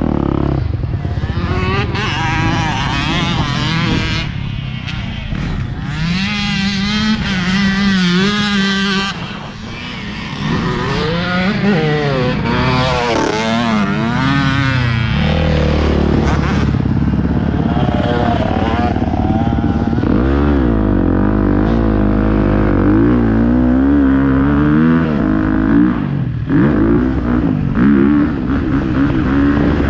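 Motocross bike engine revving on a track, its pitch repeatedly rising and falling as the throttle is opened and shut through gear changes.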